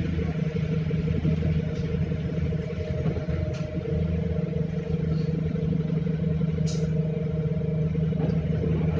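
A motor vehicle's engine running steadily with a low, even hum, and a couple of faint clicks.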